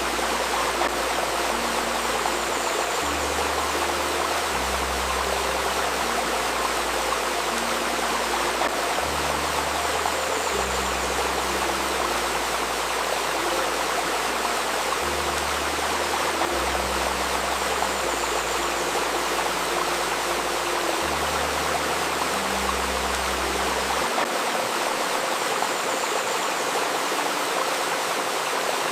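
A babbling river running steadily. Soft, low, sustained tones shift slowly beneath the water, part of a layered healing-tone track, and fall away near the end.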